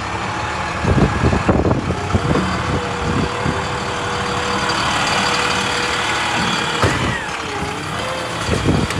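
2010 International 7400's MaxxForce DT diesel engine running, with a steady whine held for several seconds and a few clunks about a second in and near the end.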